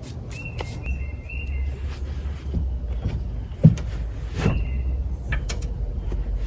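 A bird calling in short, level chirps, a few at a time, over a low outdoor rumble, with a sharp thump a little past halfway.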